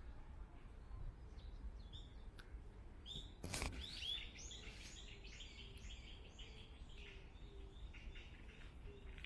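Small birds chirping in a forest. A quick run of short, high chirps starts about four seconds in, just after a single sharp knock, over a low steady rumble.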